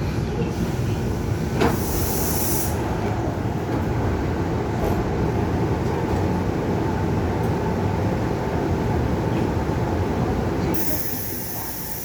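Interior running noise of a Seoul Subway Line 1 commuter electric train: a steady rumble of wheels on rail, with a sharp knock a little under two seconds in and two short hissing bursts, one near the start and one near the end.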